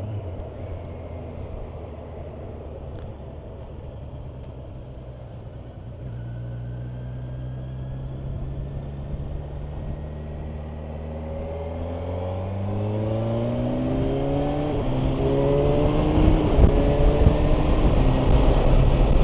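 Kawasaki Versys 1000's inline-four engine running steadily at low revs, then accelerating: its pitch climbs in steps through the gears and it grows louder, with wind noise building as speed rises.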